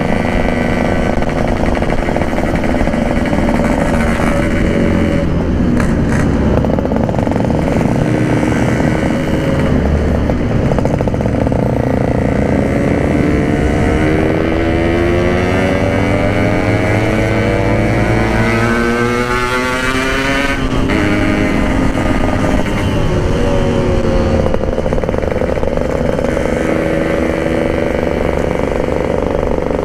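Yamaha RX-King two-stroke single-cylinder motorcycle engine running under way. Its pitch climbs steadily for about twelve seconds under throttle, drops sharply about twenty seconds in, then holds fairly steady.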